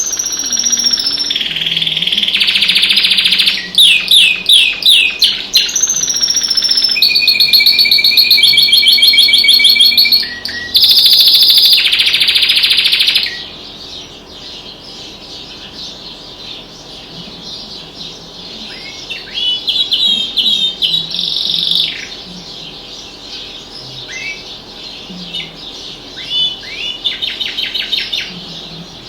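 Domestic canary singing a long, varied song of rapid trills and rolled phrases, loud for the first half. After that come quieter scattered chirps and short trills.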